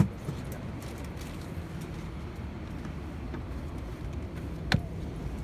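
Steady low hum inside an Airbus A319 cabin during boarding, with a knock at the start and one sharp click a little before the end.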